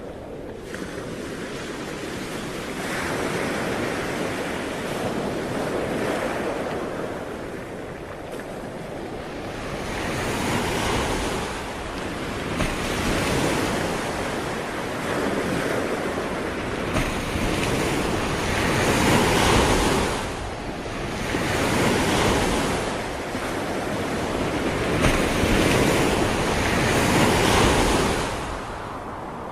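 Ocean waves breaking and washing in one after another, each swell rising and falling over a few seconds, with wind rumbling on the microphone.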